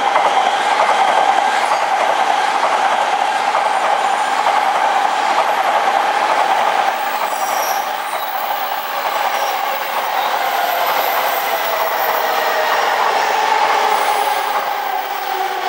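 Tōkaidō Shinkansen N700-series train running past with a steady whining tone over the rush of wheels on rail. In the last few seconds a Keihin-Tōhoku Line commuter train runs by on a nearer track.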